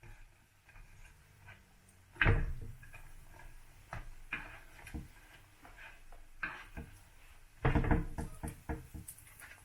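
Household handling sounds: light clicks and taps, with two heavier knocks, one about two seconds in and another a couple of seconds before the end.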